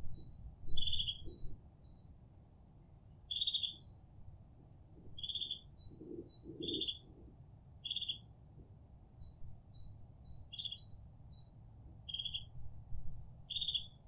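Forest birds calling in winter: one bird gives a short call eight times, every second or two, while fainter high, thin notes come in between, all over a steady low rumble.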